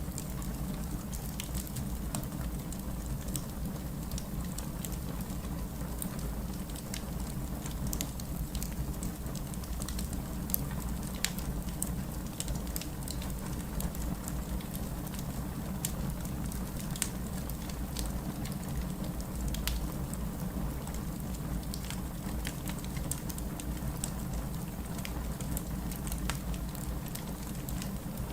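Steady rain with a wood fire crackling over it: a constant low rushing, with sharp little pops and snaps coming irregularly throughout.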